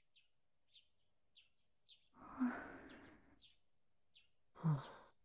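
Small birds chirping, short high chirps about every half second. A breathy sigh about two seconds in and a shorter breathy vocal sound near the end are louder than the birds.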